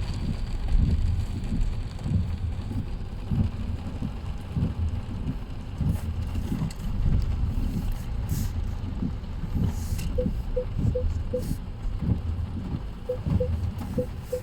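Car driving, heard from inside the cabin: a steady low road and engine rumble. Late on, two runs of the turn-signal indicator ticking at about three ticks a second.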